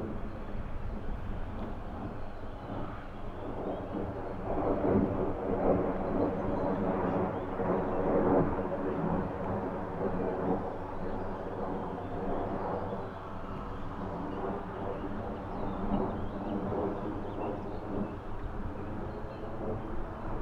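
Airbus A330-343 airliner's Rolls-Royce Trent 700 jet engines at takeoff power: a steady rumble with a droning hum of several pitches, swelling louder about four seconds in and easing off later.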